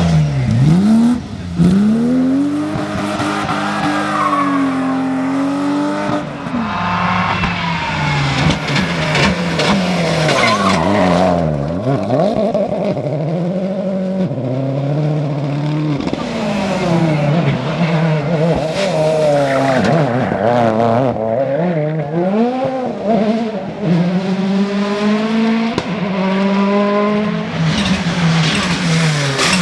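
Rally car engines revving hard, their pitch climbing and falling over and over through gear changes and lifts off the throttle.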